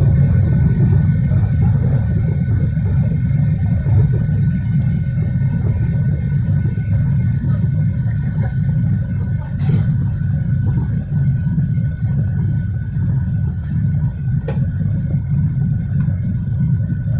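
Boeing 737-800's CFM56 jet engines at takeoff power, a steady low rumble with a faint steady whine above it, easing slightly in loudness over the stretch.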